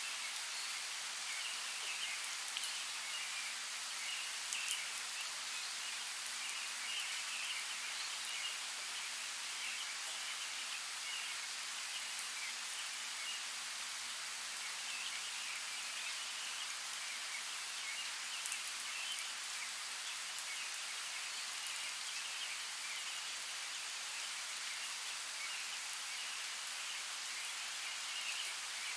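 Steady rain falling, an even hiss with scattered sharp drop clicks. A high chirring runs underneath and comes and goes.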